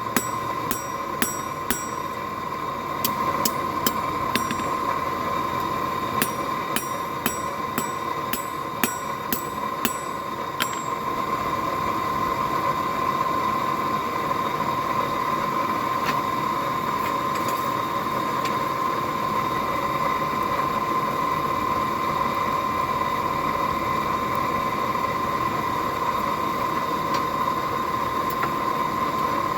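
Hammer blows ringing on mild steel over an anvil, in quick bursts of about two to three strikes a second, which stop about eleven seconds in. Under them, and alone afterwards, the forge runs with a steady whine and rush of air.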